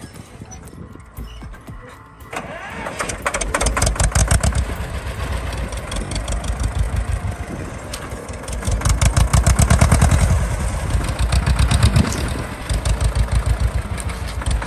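A tractor engine catches about two seconds in and runs with a rapid, even firing beat, its speed rising and falling.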